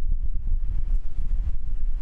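Wind buffeting the microphone: a loud, gusty low rumble that flutters continually.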